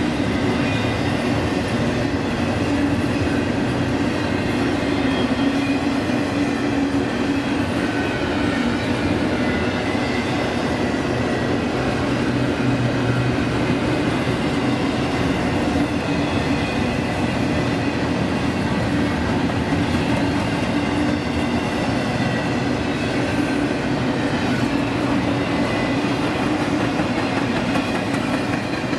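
A train's cars rolling steadily past on the track, a loud continuous rumble of wheels on rail with a faint high ringing tone above it.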